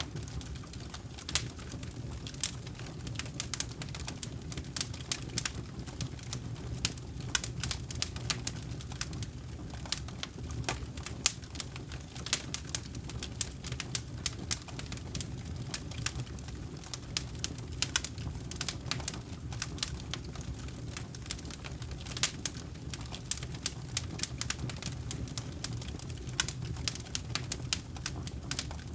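Wood campfire burning: irregular sharp crackles and pops, several a second, over a steady low rumble of the flames.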